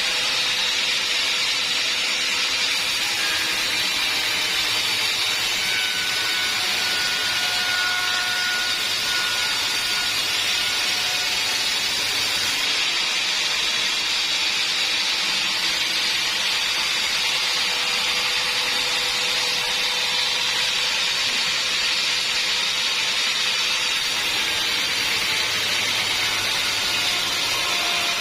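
Band sawmill running steadily, cutting through a log: an even, high hiss with faint steady tones underneath and no break.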